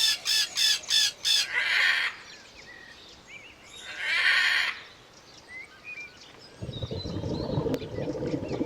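Chickens calling: a quick run of five short clucks, then two harsh squawks a couple of seconds apart, with small bird chirps in between. Near the end a denser background of murmuring and chirps sets in.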